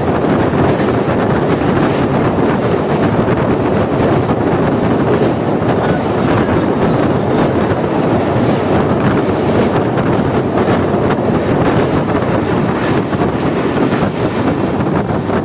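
Passenger train running at speed, heard from on board: a steady rushing rumble of the coach on the rails, with wind buffeting the microphone.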